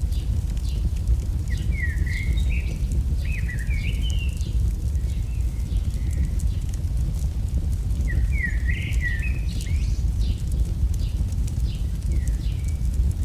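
AI-generated campfire crackle over a steady low rumble, with birds chirping in two short bursts, one early and one just past the middle.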